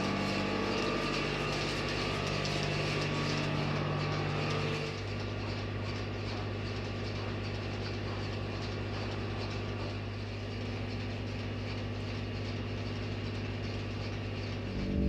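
An engine running steadily, its note changing about five seconds in.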